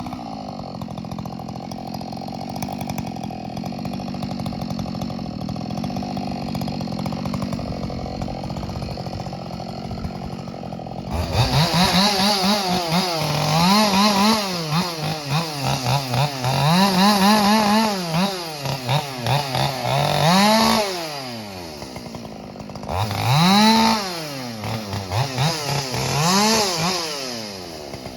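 Ported Husqvarna 572 XP two-stroke chainsaw running at a steady low speed, then about eleven seconds in it goes to full throttle and is repeatedly revved up and let back down, every two to three seconds.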